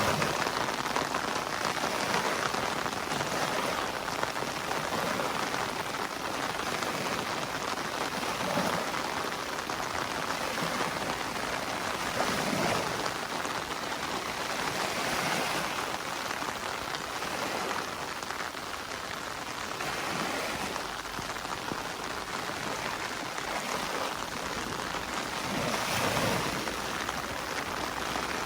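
Steady heavy rain hissing, the sound swelling briefly every few seconds.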